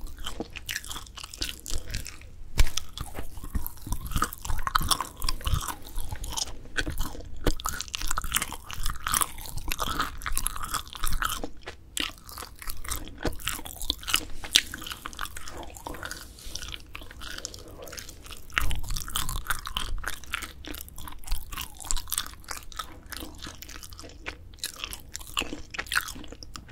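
Close-miked chewing and biting of grilled dried filefish fillet (jwipo), with a steady run of sharp crunchy clicks and moist mouth sounds.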